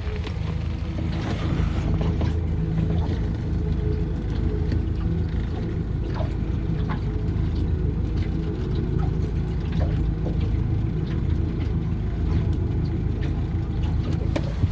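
Boat's outboard motor running steadily, a constant low rumble.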